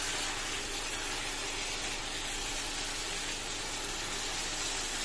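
Diced chicken breast sizzling steadily in hot oil with onion and garlic in a frying pan.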